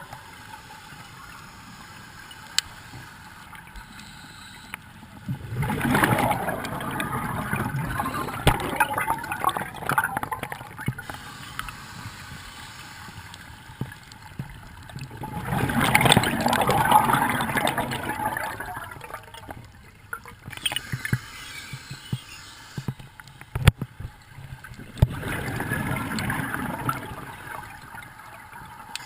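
Scuba exhalation bubbles from a diver's regulator, heard underwater: three bubbling bursts a few seconds long, about ten seconds apart, with quieter water noise and light clicks between.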